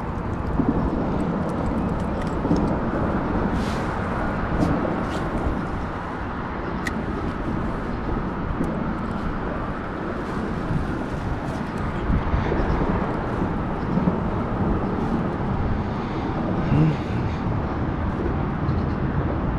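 Steady low rushing of wind on the microphone, with a few light clicks and knocks.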